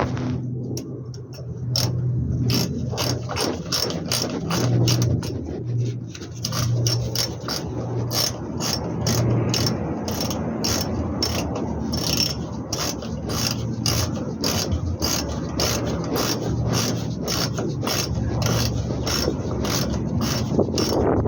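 Hand ratchet wrench clicking in a steady run of strokes, a few clicks a second, as bolts on a truck's brake assembly are turned.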